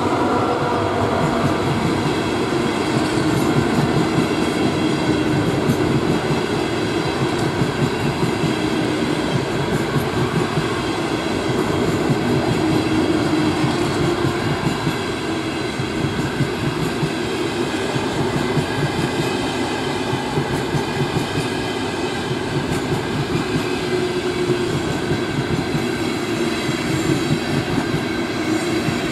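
A train running steadily along the rails: continuous wheel-and-rail rumble with clickety-clack over rail joints and a faint steady whine.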